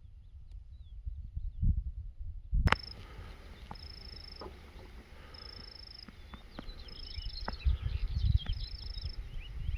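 Outdoor wildlife chorus of many short chirping calls, with a high buzzing trill repeating about every second and a half, over low wind rumble on the microphone. The background changes abruptly a little under three seconds in, where the chirping and trilling become much stronger.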